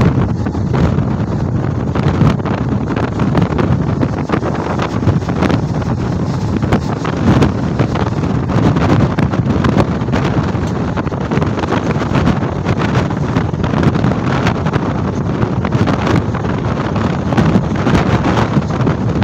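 Wind buffeting the microphone at the open doorway of a fast-running Mumbai suburban electric train, over the steady running noise of the train on the rails.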